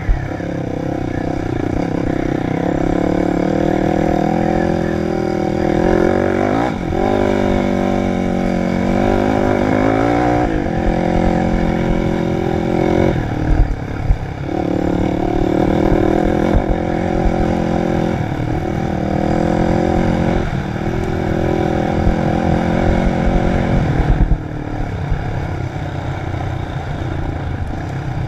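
Dirt bike engine revving up and falling back again and again while riding off-road, with a couple of sharp knocks about halfway through. It drops to a lower, quieter note for the last few seconds.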